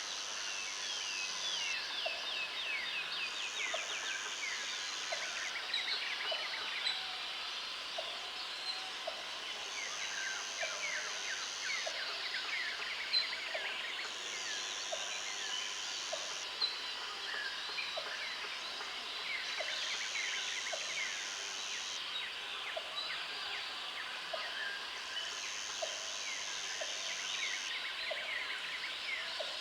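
Outdoor countryside ambience: many birds singing at once in quick chirps and trills, over a high-pitched insect buzz that switches on and off every couple of seconds.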